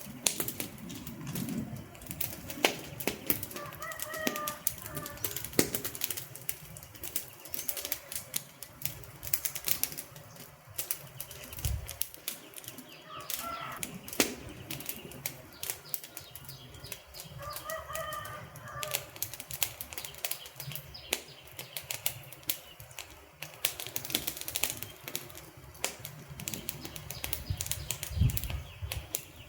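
Wood fire crackling steadily, with dense, irregular pops and snaps from the burning logs. A few short chirping tones come through three times.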